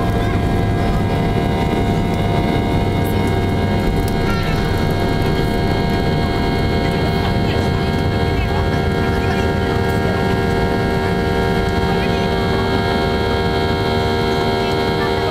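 Boeing 737-800's CFM56-7B jet engines heard inside the passenger cabin: a steady drone with several held tones over a low rumble, unchanging in level.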